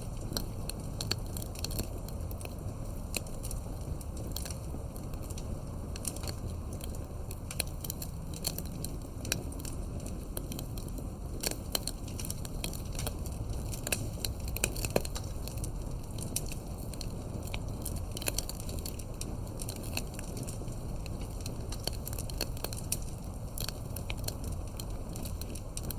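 Campfire of burning firewood crackling and popping, with irregular sharp snaps over a steady low rush of flames.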